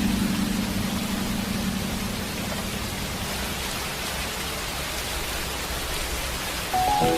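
Steady rainfall, an even hiss of rain on a surface. A low musical note dies away over the first two seconds or so, and new notes of soft music come in near the end.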